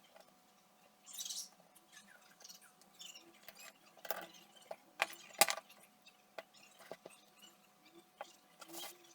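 Scattered small clicks, taps and a brief scraping from hands and tools working on the casing and parts of an old transistor radio, with the sharpest click about five and a half seconds in. A faint steady hum runs underneath.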